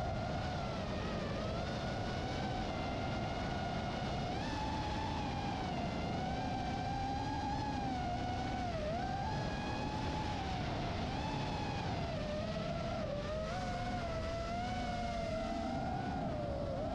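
Electric motor and propeller of a large radio-controlled foam model plane in flight, a steady whine whose pitch rises and dips as the plane circles and the throttle changes.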